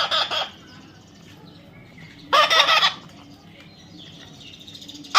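A parrot calling in short squawks, three of them about two and a half seconds apart, the last right at the end.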